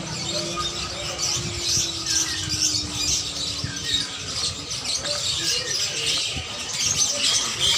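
Many caged birds chirping and squawking together in a dense, overlapping chatter of high calls, over a steady low background hum.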